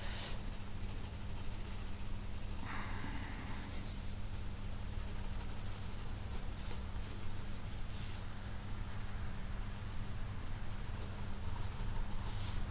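Pencil scratching on paper in repeated quick strokes as a sketch is drawn and shaded, over a low steady hum.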